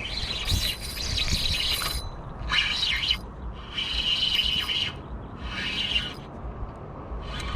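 A bird singing five raspy, high-pitched phrases, each a half second to two seconds long with short gaps between, over a steady low rumble.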